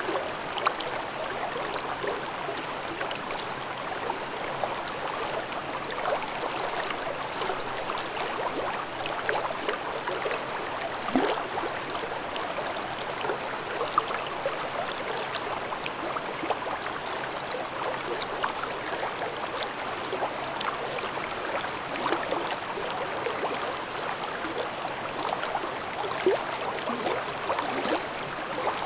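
A valley stream babbling: a steady rush of running water with many small gurgles and splashes scattered through it.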